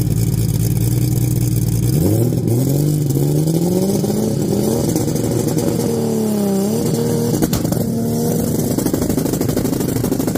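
Chevrolet Caravan drag car's six-cylinder engine at the start line: a steady high idle, then about two seconds in the revs climb slowly, dip briefly and climb again, and are held high near the end. There is one sharp pop about seven and a half seconds in.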